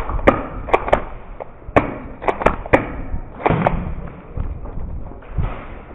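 Airsoft gunfire in a close-quarters game: about ten sharp cracks at irregular spacing, several in quick pairs, thinning out after about four seconds.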